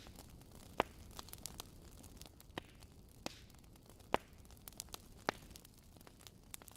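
Fireplace fire crackling: irregular sharp pops and snaps, a few louder ones standing out, over a low steady rumble.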